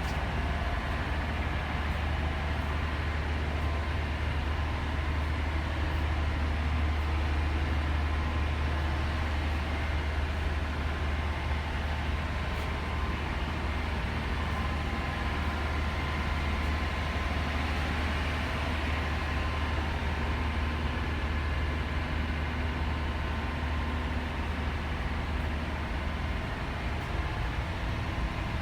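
Ship's engine-room machinery running steadily: a constant deep drone with an even rushing noise above it, unchanging throughout.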